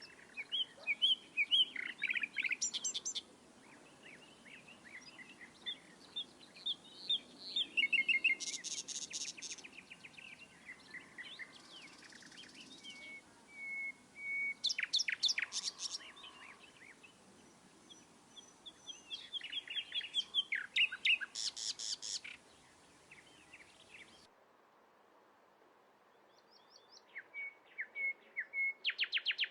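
Birds singing: about five bursts of rapid chirps and trills, each lasting a couple of seconds, separated by quieter pauses.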